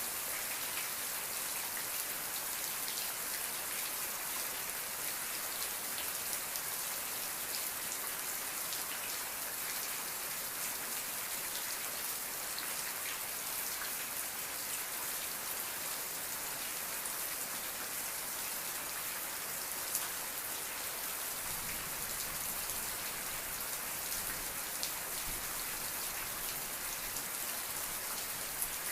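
Steady rain falling, an even hiss with many small drop ticks, and a faint low rumble for a few seconds past the middle.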